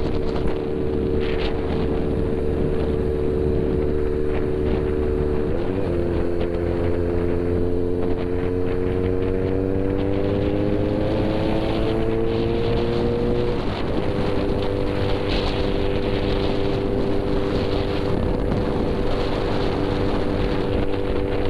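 Motorcycle engine running while riding, with wind rushing over the microphone. The engine note shifts about six seconds in, climbs slowly for several seconds as the bike picks up speed, then changes again near fourteen seconds and holds steady.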